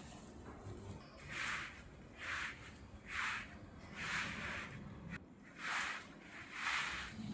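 Rhythmic brushing strokes, a short swish about once a second, about seven in all.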